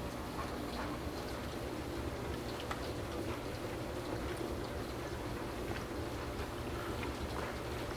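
Torrential rain falling steadily: an even hiss of rain with scattered drip and splash ticks.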